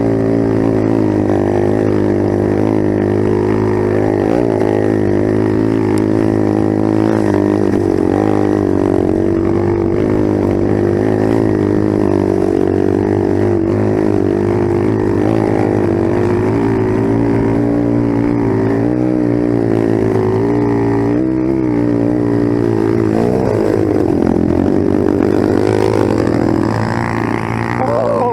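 Dirt bike engine running under way, a steady drone with the revs rising and falling a little, and a clearer rev change near the end.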